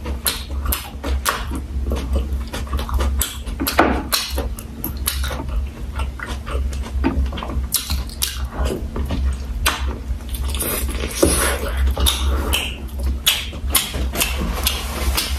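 Close-up wet chewing and lip-smacking as a person eats chewy boiled beef pizzle dipped in prahok sauce: a dense, irregular run of moist clicks and smacks, over a steady low hum.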